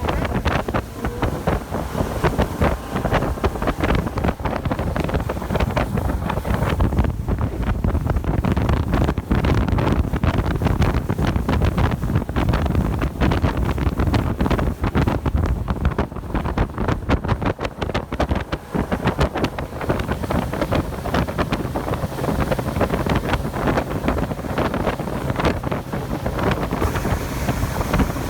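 Small boat under way in rough weather: heavy wind buffeting the microphone over the rush of water, with many rapid irregular knocks and slaps throughout.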